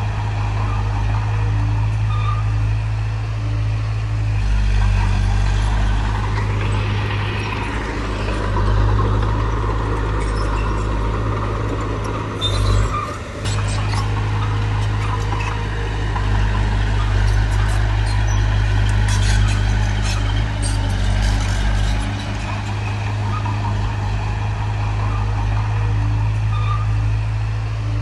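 Heavy diesel earthmoving machinery at work: a steady low engine drone with scattered clanks and rattles. The drone dips briefly about halfway through.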